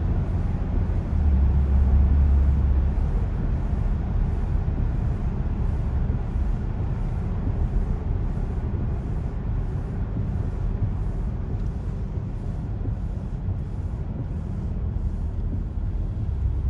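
Car driving through a road tunnel, heard from inside the cabin: steady low road and engine rumble, a little louder for a couple of seconds near the start.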